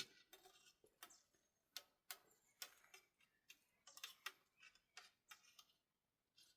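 Faint, short sharp clicks or ticks, about three a second at uneven spacing, with no voices.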